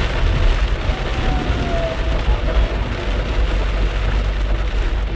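Heavy rain beating on a car as it drives along a flooded road, over a steady low rumble of the car and its tyres on the water, heard from inside the cabin.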